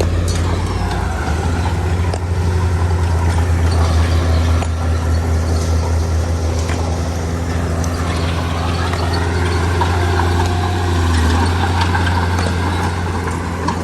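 Heavy diesel engine of construction machinery running steadily, with a pitch that dips and then rises about eight seconds in.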